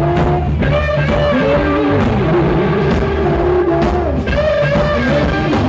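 Rock band playing live, with electric guitar playing bending lines over drums and bass and no singing.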